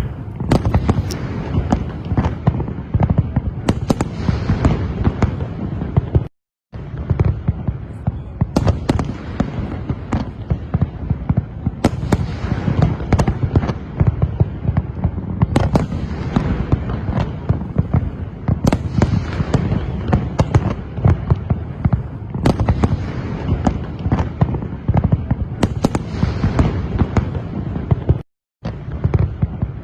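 Aerial fireworks display: a dense, continuous barrage of booming shell bursts and crackling, many overlapping. The sound cuts out completely twice, briefly, about six seconds in and near the end.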